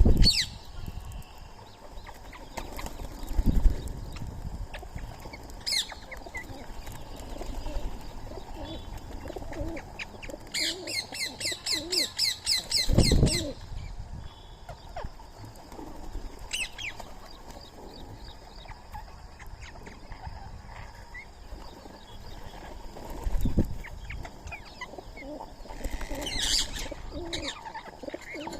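Birds calling at a feeding spot: short sharp calls now and then, and a fast run of repeated chirps lasting about three seconds near the middle. Three low thumps are heard, fitting wings flapping.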